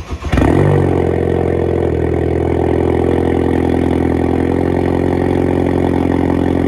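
Ford Focus ST engine cranking briefly and catching with a short rev flare, then settling into a steady idle.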